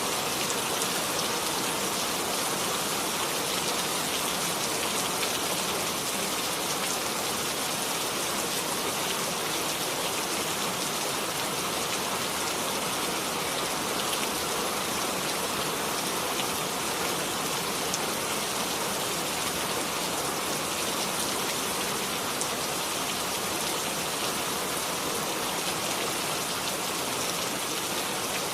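Steady rainfall: an even hiss of rain with fine patter of drops striking a surface.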